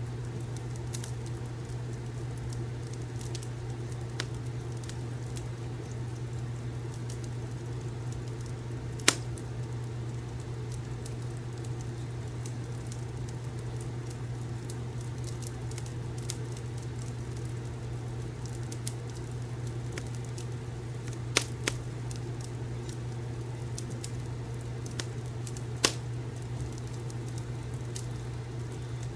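Wood fire crackling in a fireplace: a steady low rumble with scattered small crackles and a few louder pops, about nine seconds in, twice close together past twenty-one seconds, and near twenty-six seconds.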